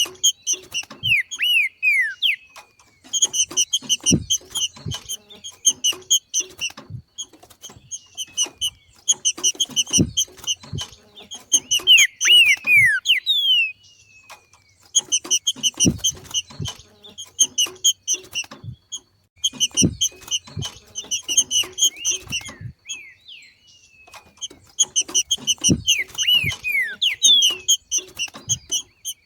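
Green-winged saltator (trinca-ferro) giving its rapid, repeated 'macheado' chatter, a call of breeding condition, in bursts of a few seconds separated by short pauses. Short falling whistles and scattered low thumps come in between.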